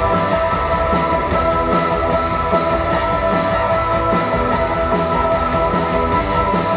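Rock band playing live, an instrumental passage with electric guitar over drums and cymbals keeping a steady beat, without singing.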